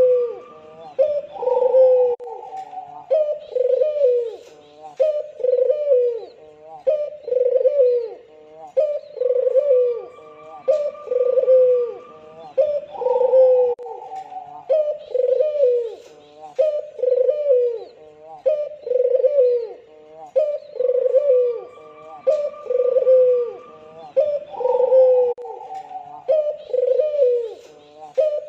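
Albino puter (white Barbary dove) cooing over and over, about one short falling coo a second. A higher call opens each phrase, and the whole sequence repeats about every twelve seconds.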